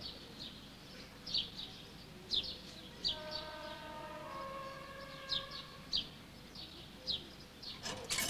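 A small bird calling over and over, short sharp chirps that slide downward, about one a second. A few seconds in, a cluster of steady tones sounds together for about two seconds, and a short burst of noise comes near the end.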